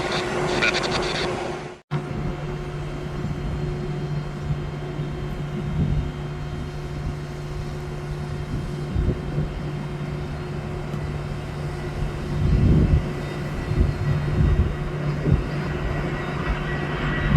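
Jet airliner engines running at a distance as a steady low hum and rumble, with gusts of wind buffeting the microphone about twelve and fifteen seconds in.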